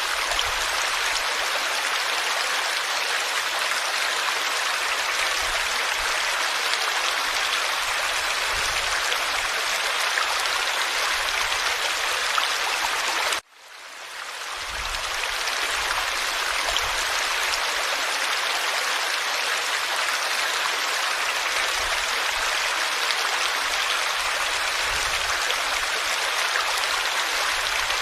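Forest stream flowing with a steady rush of water. About halfway through the sound cuts out suddenly and fades back in.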